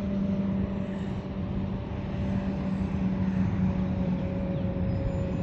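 Steady engine drone: a constant low hum with a fainter higher tone over an even rushing noise.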